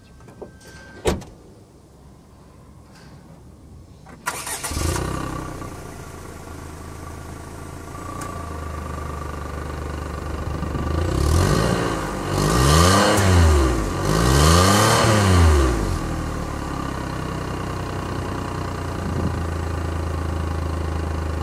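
Suzuki Alto's small three-cylinder engine heard at the tailpipe: after a sharp knock about a second in, it cranks and starts about four seconds in, then idles steadily. It is revved up and back down a few times in the middle, then settles back to a steady idle.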